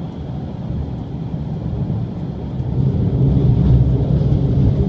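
Running noise of an electric limited express train, heard from inside the passenger car: a steady low rumble of wheels on rail that grows louder about three seconds in.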